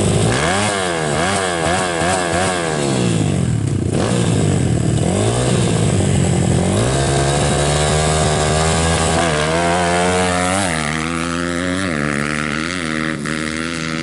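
Motorcycle engines revving sharply up and down over and over for the first few seconds, then a steadier engine note that climbs and wavers as the revs build.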